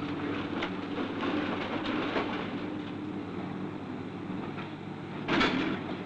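A rail vehicle running on track, rumbling steadily with a low hum and scattered rattling clicks. A single louder clank comes about five seconds in.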